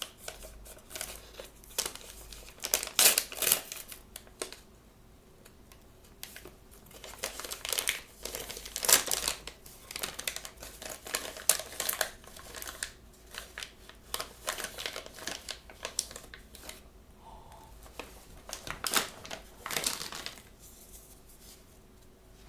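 Toy blind-bag packaging crinkling and rustling in irregular bursts as it is handled and torn open by hand.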